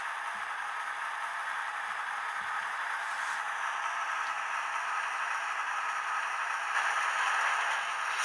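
Minitrix N-scale model BR 218 diesel locomotive running with its digital sound on: a steady hiss-like noise that swells slightly near the end.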